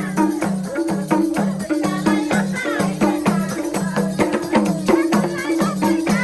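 Instrumental break of live Nepali dohori folk music: a tuned hand drum playing a quick, even rhythm, with jingling percussion and a melody instrument over it.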